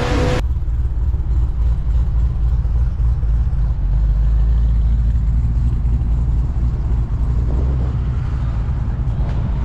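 Car engine idling with a deep, steady low rumble.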